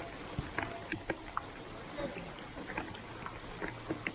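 Steady hiss of rain falling on an open artificial-turf football pitch, with scattered short knocks and clicks from play on the wet surface.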